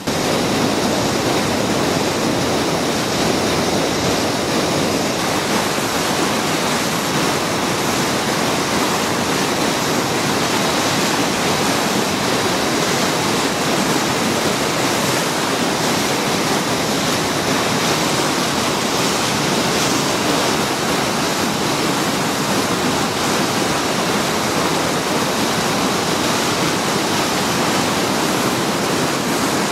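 Whitewater of a flooded river rapid rushing in a steady, unbroken wash of noise.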